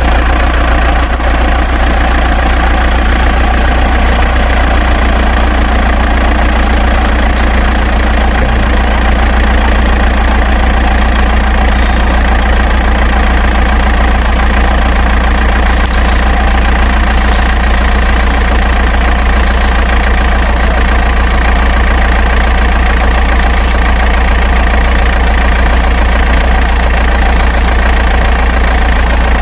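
Tractor engine idling steadily with a strong deep hum, even and unbroken throughout.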